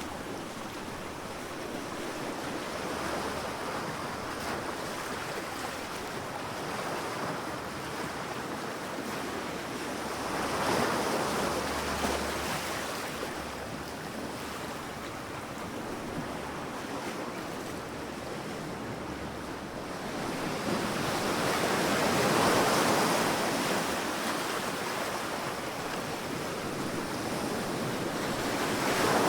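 Sea waves breaking on a sandy beach: a steady wash of surf, with two louder waves swelling and fading, one about ten seconds in and a bigger one about twenty seconds in.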